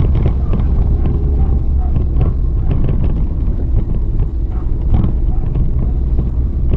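A car driving, its engine running under a steady low rumble of road and tyre noise, with scattered short knocks.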